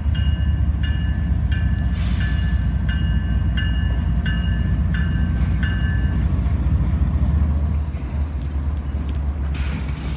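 Diesel locomotive freight train running with a heavy low rumble, while a bell rings steadily about every 0.7 seconds and stops about six seconds in. The rumble eases near the end.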